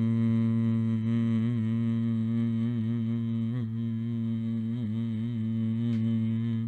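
A man's voice humming one steady low drone, a vocal imitation of a bathroom fan. The pitch holds level with a few slight wavers.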